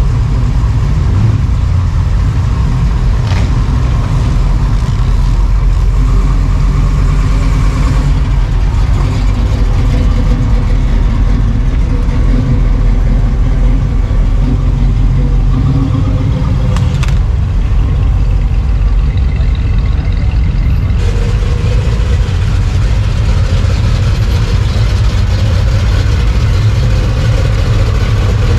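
Car engine running loudly with a steady low rumble, its character changing about three quarters of the way through.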